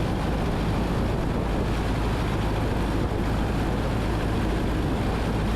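Cockpit drone of a 1977 Cessna 172N in flight: the Lycoming O-320 four-cylinder engine and propeller running steadily with airflow noise, heard inside the cabin.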